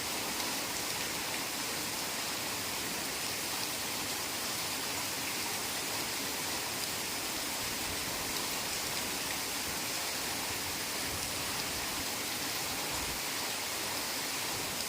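Heavy rain falling steadily, a dense even hiss with no single drops or other sounds standing out.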